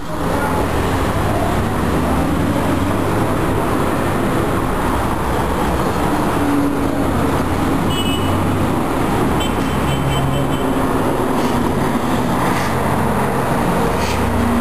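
Steady road traffic noise with vehicles rumbling past at a street crossing, and a few brief high chirps about halfway through.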